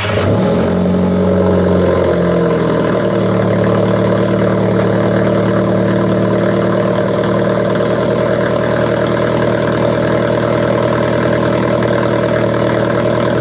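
Alfa Romeo 4C's 1.75-litre turbocharged four-cylinder fast-idling just after a cold start, heard at the exhaust. The idle settles a little lower about two to three seconds in and then holds steady.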